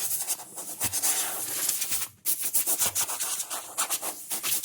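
Compressed-air blow gun blowing sanding dust off a freshly scuffed aluminium body panel: a loud fluttering hiss with a short break about two seconds in.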